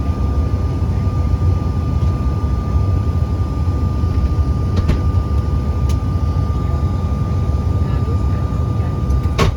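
Cabin noise of an American Eagle airliner with its engines running: a steady low rumble with a steady high engine whine, and a few faint clicks, one near the end.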